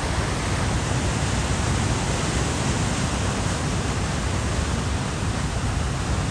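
Romero Canyon Creek in flood, its swollen water rushing in a loud, steady roar.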